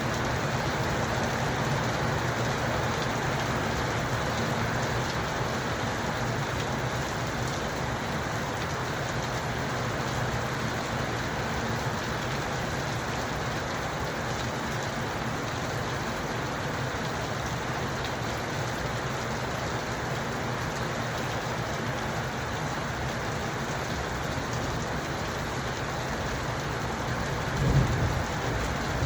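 Steady rain falling, an even hiss. Near the end there is a brief, louder, low thump.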